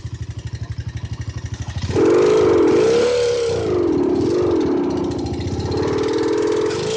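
Honda Mega Pro single-cylinder motorcycle engine fitted with an add-on exhaust sound booster, idling with even pulses. About two seconds in it is revved, and the pitch rises and falls in several swells of the throttle.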